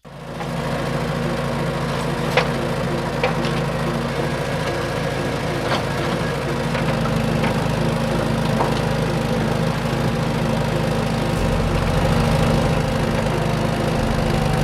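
A small motor running steadily, cutting in abruptly, with a few sharp clicks over the first several seconds and a deeper hum joining near the end.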